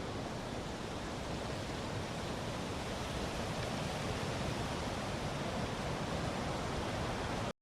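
Steady rushing of water, an even noise without pauses, which stops abruptly near the end.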